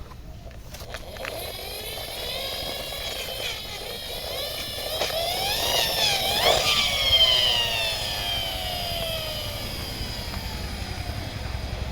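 Aircraft engine sound whose pitch climbs to a peak a little past halfway and then slides slowly down, like an aircraft flying past overhead.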